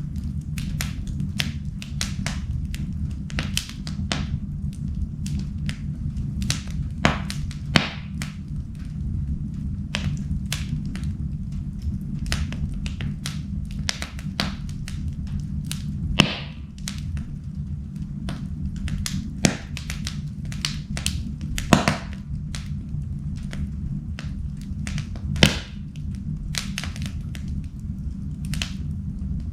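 Wood fire in a fireplace crackling: irregular sharp pops and snaps over a steady low rumble, with a few louder cracks standing out.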